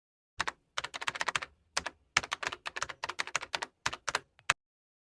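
Typing on a computer keyboard: quick, irregular key clicks in short runs, stopping about four and a half seconds in.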